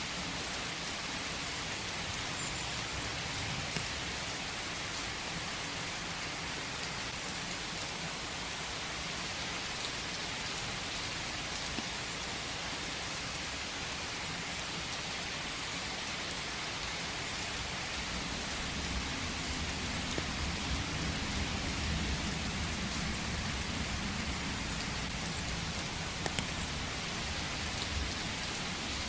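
Steady rain falling in a forest, an even hiss with scattered drop ticks. A low rumble swells in the second half and fades near the end.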